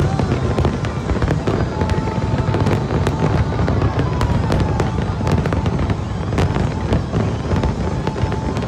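Aerial fireworks display: a continuous deep rumble of shell bursts overlaid with dense crackling from many small sharp pops.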